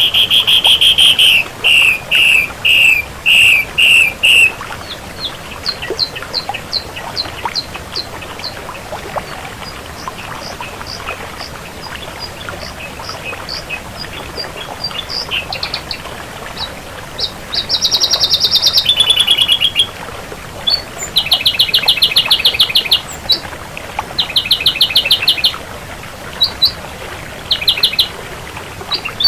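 Ashy drongo singing a varied song: loud rapid trills at the start, then a string of short, sharp, high notes, then more bursts of rapid trills in the second half.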